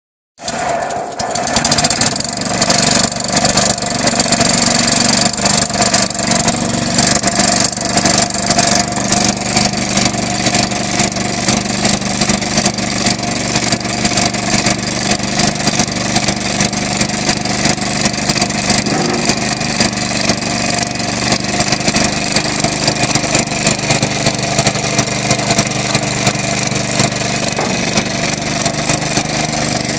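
Southpenn 20 HP hit-and-miss flywheel engine running on propane after a cold start: a loud, steady mechanical clatter full of rapid clicks.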